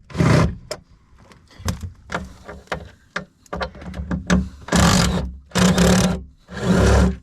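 A small electric motor runs in short bursts of about half a second, once near the start and three times in quick succession in the second half, with clicks and rattles of handled parts in between.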